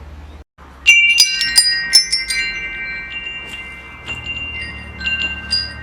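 Metal wind chimes: a cluster of strikes about a second in sets several high tones ringing on and slowly fading, then a few lighter strikes near the end, over a low steady hum.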